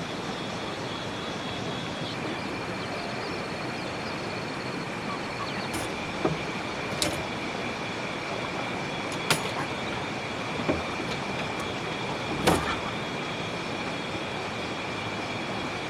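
Steady outdoor background hiss with two thin, continuous high-pitched tones, broken by about five short, sharp knocks in the second half, the loudest about twelve and a half seconds in.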